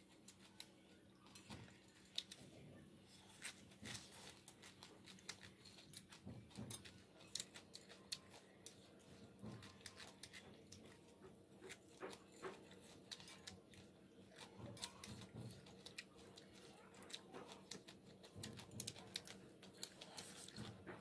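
Faint mouth sounds of two people chewing a crunchy hooker chive singju salad, with irregular small clicks of forks on ceramic plates.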